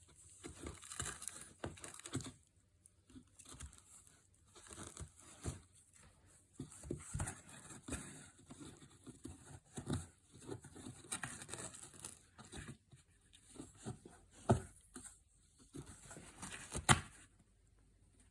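A cat tearing and shredding cardboard with its teeth and claws: irregular bursts of ripping and crackling with short pauses between them, and two sharp, louder rips near the end.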